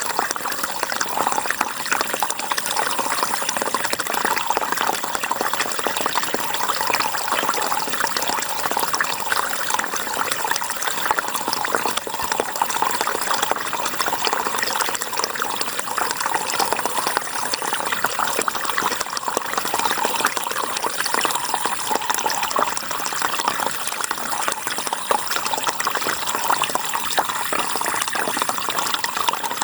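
River water flowing and splashing in a steady rush.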